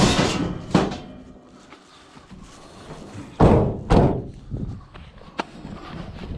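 Scrap metal clattering as it is loaded into a van, then two heavy slams about half a second apart.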